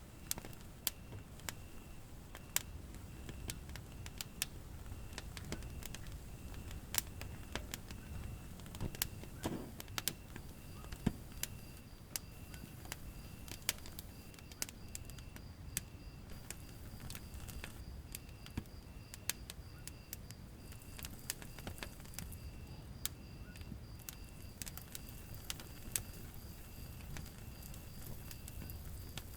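Wood fire burning in a fireplace, with many sharp, irregular crackles and pops over a low rumble of flame. Behind it a cricket chirps in a steady, even rhythm, and a second, higher-pitched chirping joins about a third of the way in.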